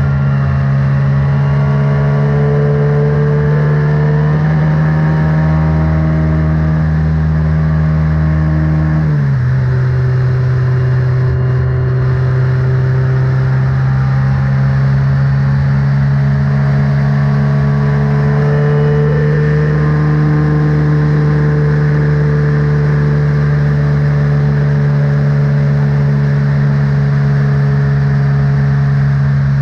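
Formula Renault race car engine running at a nearly constant speed, with a slight drop in pitch about nine seconds in and then holding steady.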